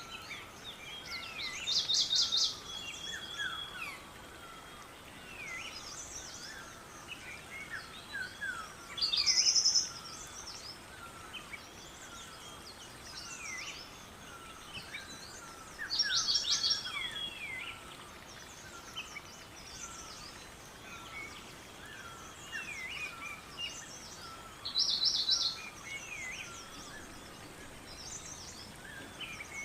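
Songbirds chirping and singing all through, with one louder bird repeating a short, rapid song phrase four times, about every seven seconds.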